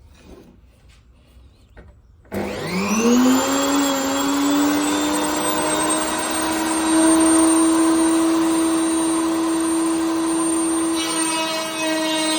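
A few faint knocks, then an electric router switched on about two seconds in: its motor spins up with a rising whine and runs at a steady high speed.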